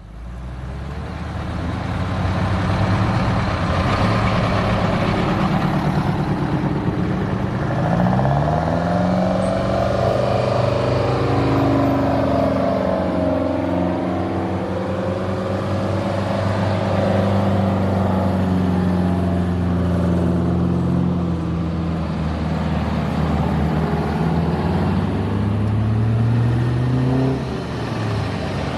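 Diesel truck engines running, their pitch rising and falling several times as they rev and pull.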